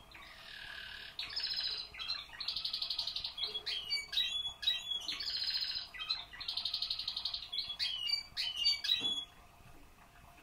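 Male canary singing: long fast trills alternate with short, sharp, sliding notes. The song stops about nine seconds in.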